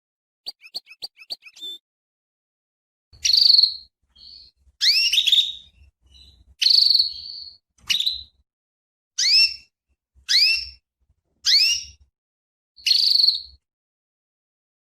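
Female canary calling: a quick run of six short chirps, then a string of rising, whistled call notes about once a second. These are the eager calls of a female canary in breeding mood, used as a lure to get a male canary to answer.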